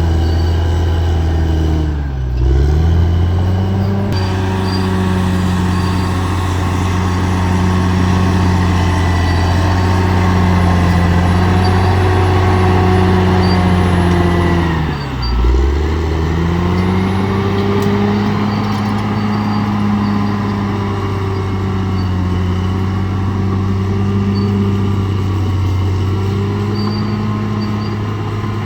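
Bulldozer's diesel engine running steadily under load, its note dipping sharply and recovering twice, about two seconds in and again about halfway through.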